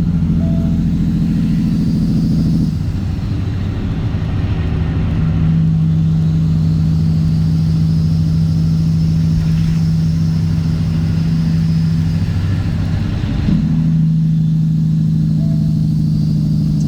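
Straight-piped Cat C15 ACERT diesel of a Kenworth W900 running under way with a steady, loud drone. The engine note changes about three seconds in and again about thirteen seconds in.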